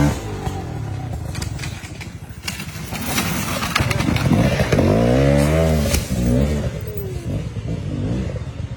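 Dirt bike engines revving hard in repeated bursts, the pitch rising and falling, loudest from about four to six seconds in.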